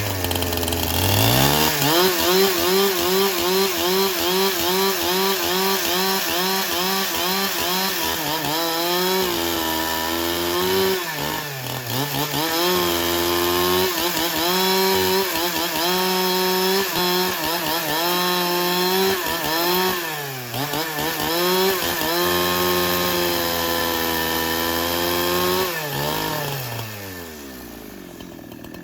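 Chainsaw engine revving up and running at high speed as it cuts through wood. Its pitch wavers and sags a few times under the load of the cut, then it drops back and winds down near the end.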